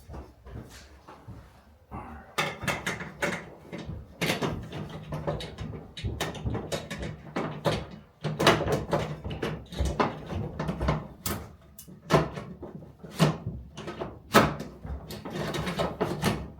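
Irregular clicks, knocks and rattles of hands working a ceiling light fixture and its mounting bracket into place.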